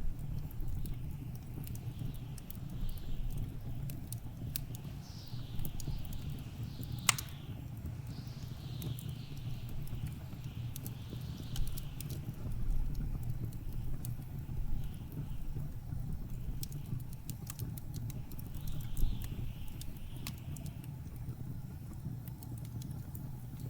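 Wood fire crackling with scattered sharp pops, one louder pop about seven seconds in, over a steady low rumble of blizzard wind whose gusts rise and fall in sweeping hisses.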